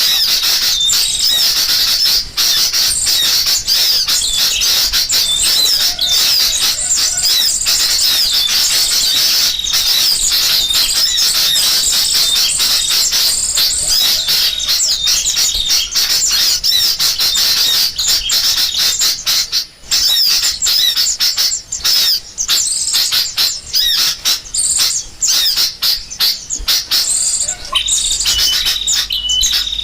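Bird-lure recording of sooty-headed bulbuls giving agitated alarm chatter, mixed with the calls of small songbirds. It is a dense, unbroken tangle of high chirps and squawks, loud throughout and broken by many sharp clicks.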